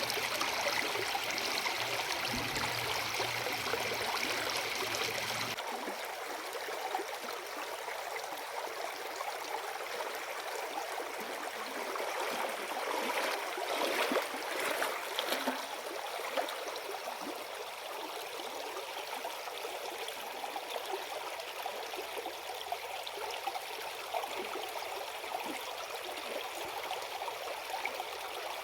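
River water running, a steady rushing and trickling. The sound changes abruptly about five and a half seconds in, and a few faint clicks come around the middle.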